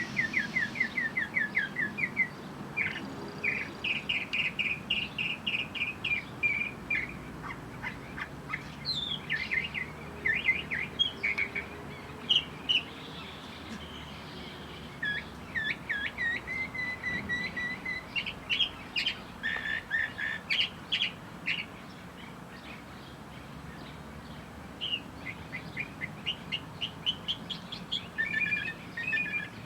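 Small birds chirping in quick runs of short, high notes, several calls overlapping at times, with a lull about two-thirds of the way through.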